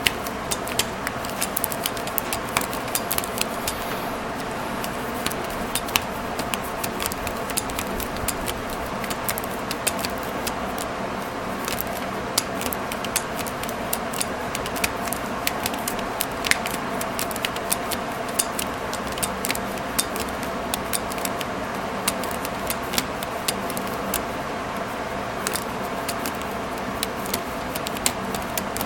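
Irregular sharp metallic clicks and clinks, a few each second, over a steady hum.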